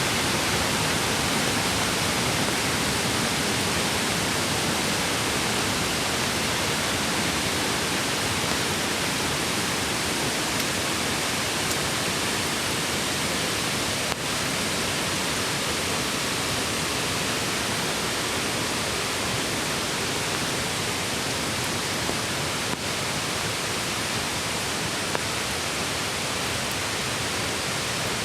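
Mountain stream water rushing over rocks, a steady, even noise that does not let up.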